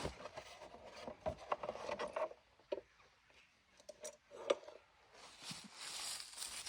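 Scattered light clicks, knocks and rubbing as a pocket bike's plastic body panels and fuel tank are worked loose and lifted off. There is a flurry of handling in the first couple of seconds, a few isolated clicks after that, and a soft rushing noise building near the end.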